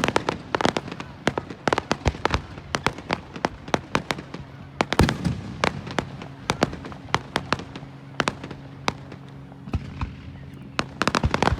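Fireworks going off in quick, irregular succession: many sharp cracks and bangs, closing in a dense run of crackling near the end.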